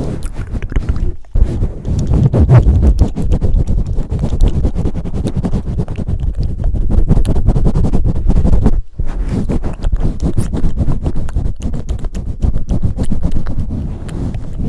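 Hands pumping and swirling over a microphone for ASMR: a dense run of muffled low thumps and rubbing, broken by brief gaps about a second in and near nine seconds.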